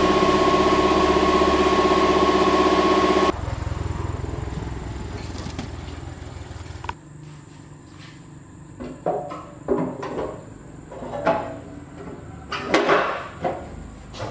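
An engine running steadily, which cuts off suddenly about three seconds in. A quieter fading noise follows, then a few separate knocks and clanks of metal parts being handled near the end.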